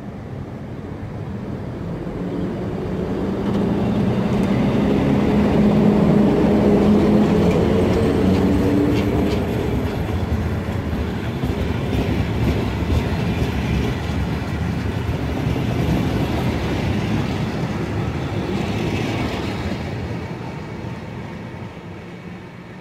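EU06 electric locomotive and its train of passenger coaches passing: the locomotive's hum builds to a peak about six seconds in, then the coaches rumble by with wheels clicking over rail joints, fading away near the end.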